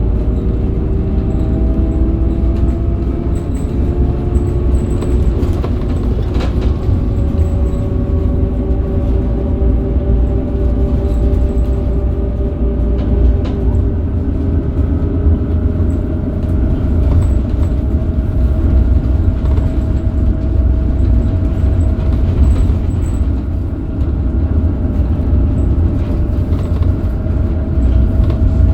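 Scania K270UB bus under way, its Scania DC9 nine-litre diesel giving a steady low rumble. A driveline whine through the ZF Ecomat automatic gearbox climbs slowly in pitch as the bus gathers speed. A few faint knocks sound over it.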